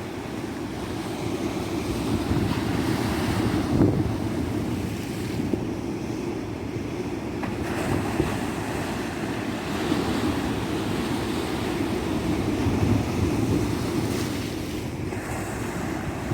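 Ocean surf breaking and washing on a beach, swelling and easing every few seconds, with wind buffeting the microphone.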